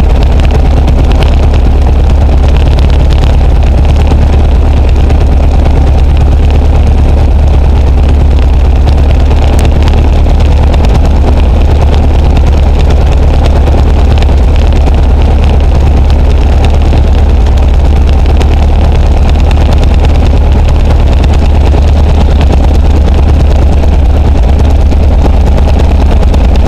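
Luscombe light aircraft's piston engine running steadily at low power, heard loud from inside the cockpit with a deep, even drone and propeller noise.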